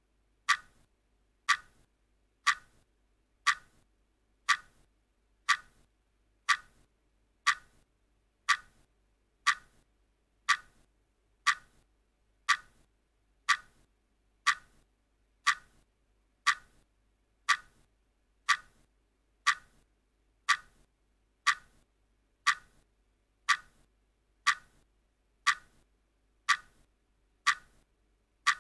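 Countdown timer ticking steadily, one short sharp click about every second.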